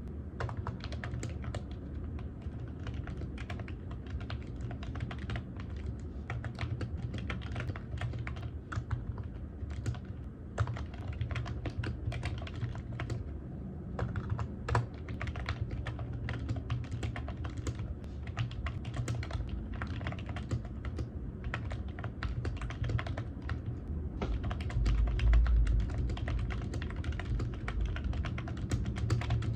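Continuous typing on a computer keyboard: a dense, irregular stream of key clicks over a low steady hum. There is a louder low thump near the end.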